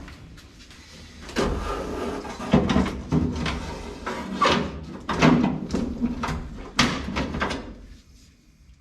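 A series of sharp metal clanks and knocks, with rattling and scraping between them, as window hardware is worked loose inside a 1955 Chevrolet 210's steel door.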